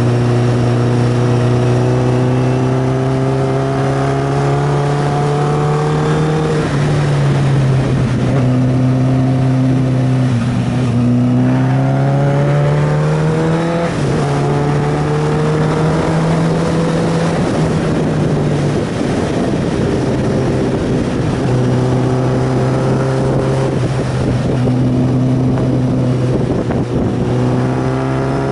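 Sport motorcycle's engine running hard under load, its note drifting slowly in pitch and stepping up and down several times as it changes gear, with steady wind rush.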